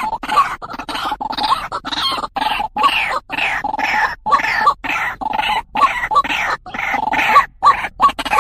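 White-breasted waterhen (truwok, ruak-ruak) calling: a harsh, repeated croaking call, about two to three notes a second, kept up without a pause.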